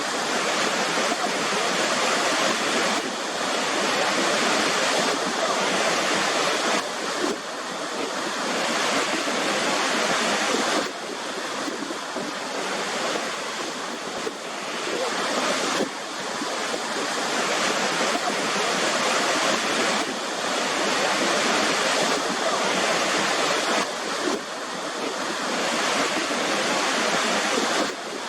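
Waterfall, a dense steady rush of falling water; its loudness drops abruptly every four to five seconds and then builds again.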